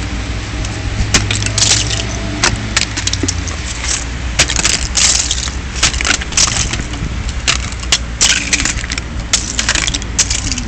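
Ice clinking and crackling in freezing rain: many irregular, glassy clicks and clatters, some in quick clusters, over a steady low rumble.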